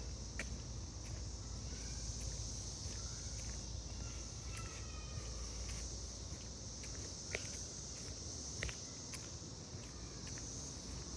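Footsteps on a woodland trail, irregular clicks, two sharper ones about seven and nine seconds in, over a steady high-pitched insect chorus.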